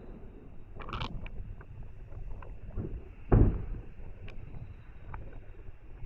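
Distant aerial fireworks bursting: one heavy boom about halfway through that rolls away over a second, a short crackle about a second in, and a low continuous rumble under it.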